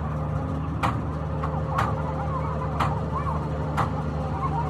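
Sharp knocks, about one a second, over the steady low hum of a running machine, with faint wavering whines in the background.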